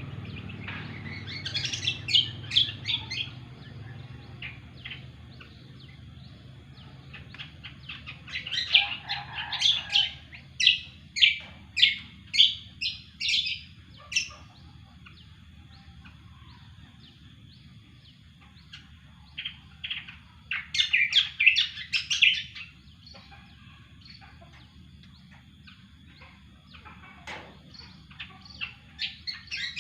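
Cucak kombo songbird singing in phrases of rapid, loud chirping whistled notes, several bursts separated by pauses of a few seconds. A faint steady high tone runs underneath.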